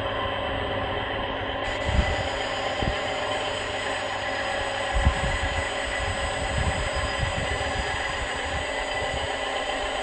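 Radio-controlled model Reo dump truck running, its small electric motor and gearbox whining steadily, with a few low thumps about two seconds in and a cluster of thuds in the middle.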